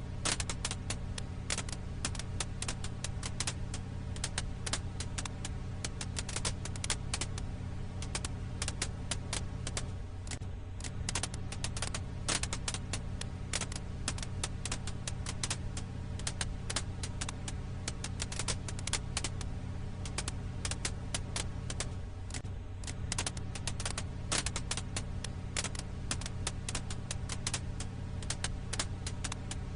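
Wood fire crackling: dense, irregular pops and snaps over a steady low hum.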